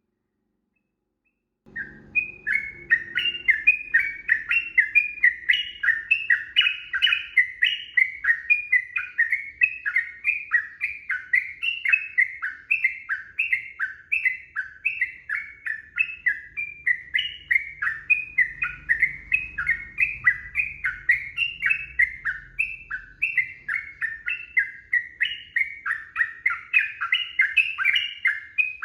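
Yellow-vented bulbul singing a long, unbroken run of quick, bubbling notes, about three or four a second, starting about two seconds in.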